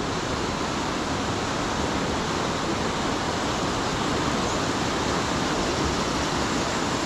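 Fast-running river water rushing steadily over rocks below a waterfall, an even unbroken rush with no single splashes standing out.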